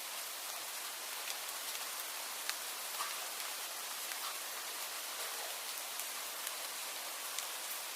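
Steady rain: an even hiss with scattered sharp ticks of single drops landing close by.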